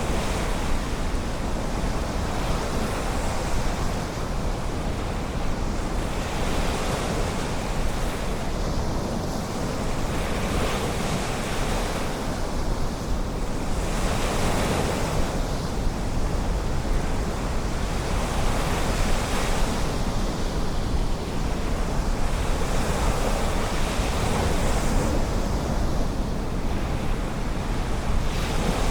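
Ocean surf breaking and washing up on a sandy beach, a steady rush that swells every few seconds as each wave comes in.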